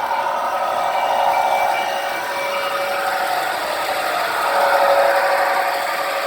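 Lionel Canadian Pacific model train running on its track: a steady electric-motor whir with the rolling of wheels on rails, a faint high whine in the first half.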